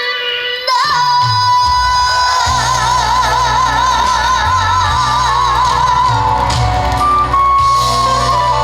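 A boy singing a Korean trot song over a band backing track, holding a long high note with heavy vibrato while the bass comes in.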